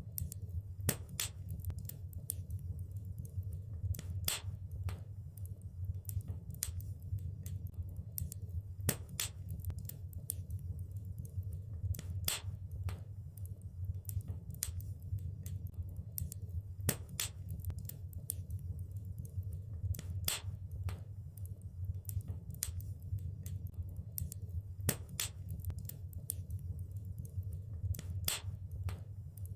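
Wood fire burning in a fireplace: a steady low rumble of flames with irregular crackles and sharp pops of burning logs, a few louder snaps scattered throughout.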